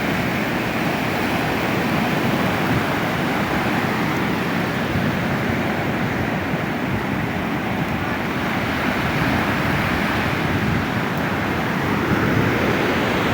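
Steady rush of ocean surf breaking and washing up the beach, with wind buffeting the microphone.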